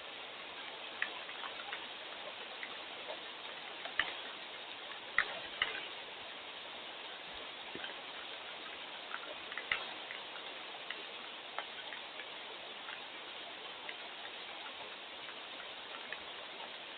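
Steady rain hiss with irregular sharp ticks of drops hitting a nearby surface, a few louder taps about four, five and ten seconds in.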